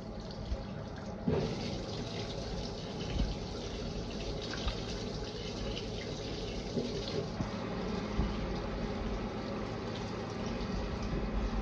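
Fisher & Paykel IW812 top-loading washing machine filling with water, a steady rush of water pouring into the drum that gets fuller and brighter about a second in.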